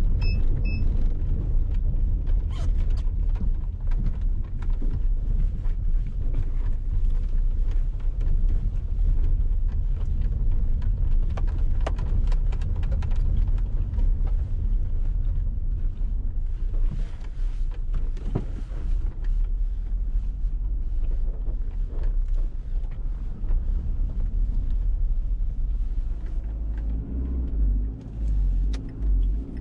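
Dacia Duster on the move, heard from inside the cabin: a steady low rumble from the running gear with frequent small creaks and knocks from the body and suspension, typical of a rough, uneven track.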